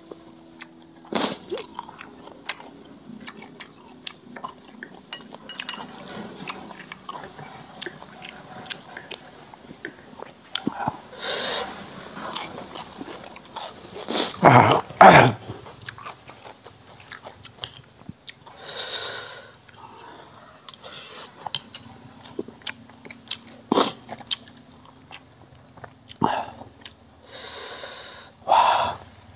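A person eating crispy deep-fried pork with rice: chewing and crunching close to the microphone, with many short clicks of chopsticks and bowl and several loud breathy exhales between bites.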